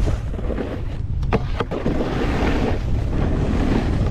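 Wind buffeting an action camera's microphone while snowboarding, with the board sliding over snow and a few sharp clicks about a second and a half in.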